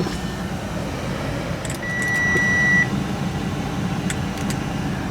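A car's electronic warning chime: one steady high beep lasting about a second, starting about two seconds in, over a steady low hum.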